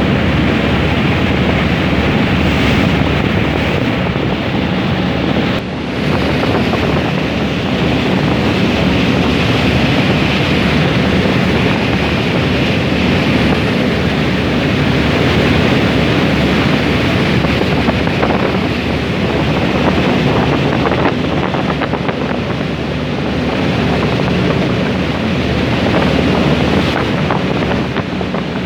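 A passenger ferry under way: a steady rush of wind on the microphone and water rushing past the hull, over the low hum of the ferry's engines.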